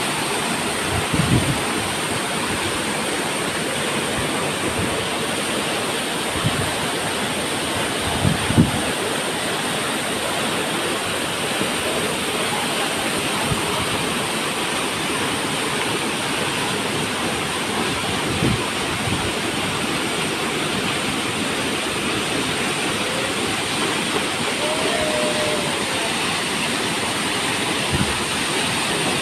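Waterfall: a steady rush of falling water, with a few short low thumps.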